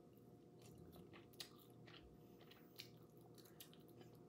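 Faint chewing of barbecue-sauced fried chicken, with a few soft scattered mouth clicks over a low steady room hum.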